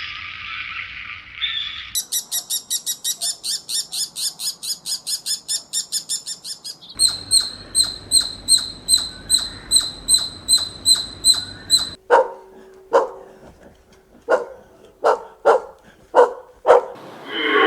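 A run of separate animal clips. First comes bird chatter, then a fast, even trill of very high notes at about five a second, then high, pure chirps at about two a second. In the last few seconds a dog barks about nine times in short, sharp barks.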